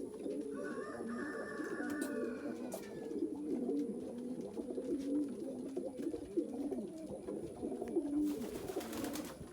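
A loft full of racing pigeons cooing together: many low, overlapping coos that run on without a break.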